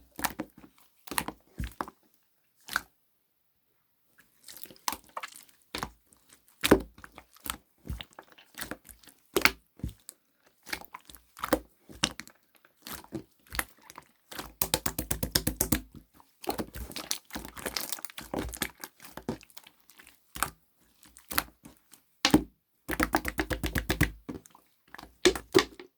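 Brown-and-black slime being squeezed and poked by hand, giving irregular crunchy clicks and crackles, with two quick runs of small popping clicks, one midway and one near the end.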